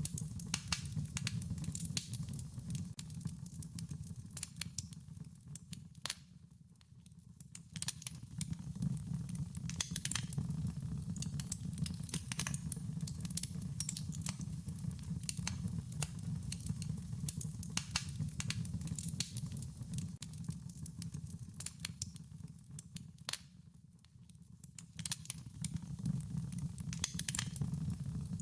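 Wood fire crackling: a steady stream of small sharp pops and snaps over a low rumble of burning, easing off briefly twice.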